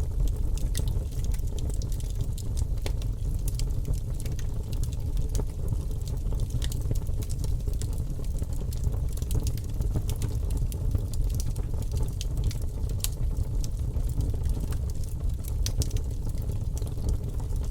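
Campfire burning, the wood crackling with frequent sharp pops over a steady low rumble of the flames.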